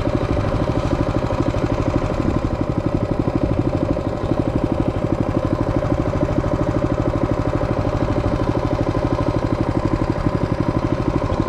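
Mini bike's small engine idling steadily, an even, rapid pulsing.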